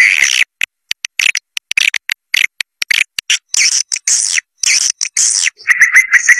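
Swiftlet calls from a swiftlet-house lure recording: a rapid run of short, sharp chirps and twitters, cut by abrupt silences, with a fast buzzy trill near the end.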